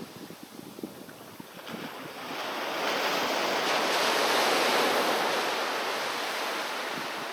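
Sea waves washing onto the shore: a quieter stretch with light crackling of water, then a wave surges in about two seconds in, loudest near the middle, and slowly subsides.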